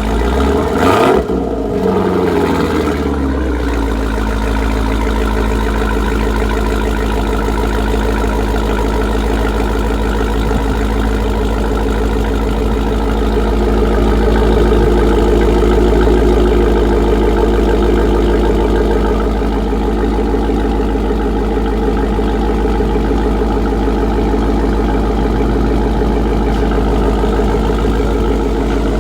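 Dodge Durango Hellcat's supercharged 6.2-litre V8 through an aftermarket exhaust, revved once about a second in and falling back, then idling steadily.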